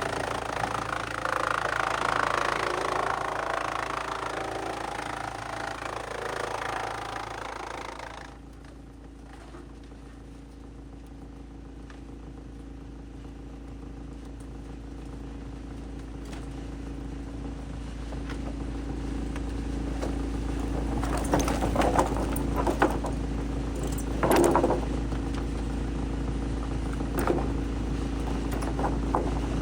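Heavy-duty wood shredder working: a loud grinding rush for the first eight seconds or so, which stops abruptly. The machine's engine then runs on steadily and slowly grows louder, with a few sharp clanks and knocks near the end.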